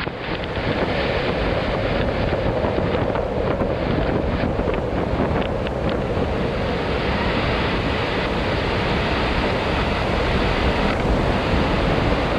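Steady rushing wind noise, with a run of crackling clicks through the first half.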